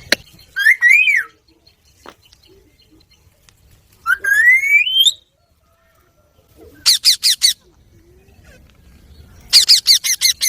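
Rose-ringed parakeet calls: a rising-and-falling whistle about a second in, a long rising call around four seconds, then four quick sharp squawks and, near the end, a faster string of squawks.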